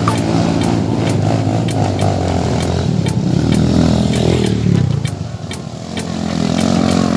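Off-road vehicle engine working hard on a climb, its revs rising and falling, with a steady beat ticking about twice a second underneath.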